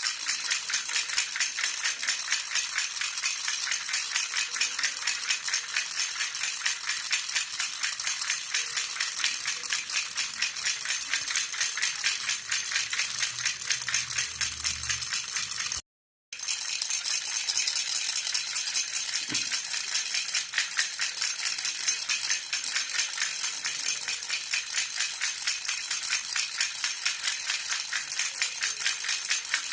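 Jhunjhuna baby rattle shaken steadily, making a continuous rapid jingling rattle. It cuts out for a moment about halfway, then carries on as before.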